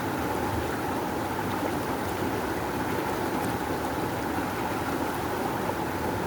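Rushing river water, a steady, unbroken flow.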